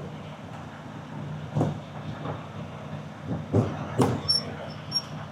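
Semi truck's diesel engine idling steadily, with a handful of sharp metallic knocks and clanks about a second and a half in and again after three seconds, and two brief high-pitched chirps near the end.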